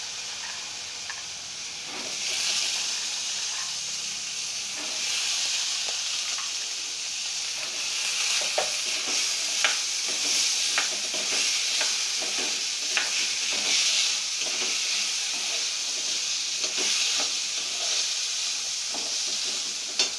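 Soaked black-eyed peas sizzling in hot oil and green chilli-garlic-ginger paste in a steel kadai. The sizzle swells about two seconds in as they are stirred, with a plastic spatula now and then scraping and tapping the pan.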